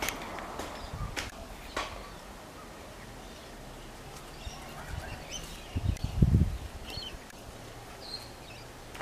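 Faint bird chirps, with a few sharp clicks in the first two seconds and a brief low rumble about six seconds in.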